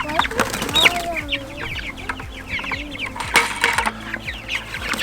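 A flock of young meat chicks peeping continuously, a dense stream of short, high, falling cheeps. A brief knock sounds a little past three seconds in.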